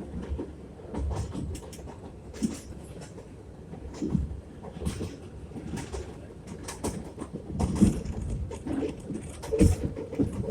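R62A subway car running along the track: a steady rumble with irregular knocks and clatter from the wheels on the rails. A short wheel squeal starts near the end.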